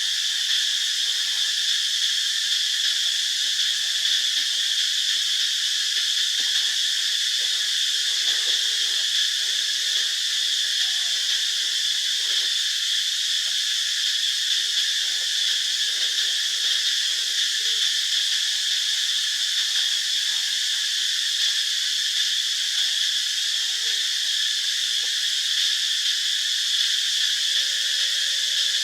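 Steady, high-pitched insect chorus drone with no breaks, with faint scattered lower sounds beneath it and a brief held tone near the end.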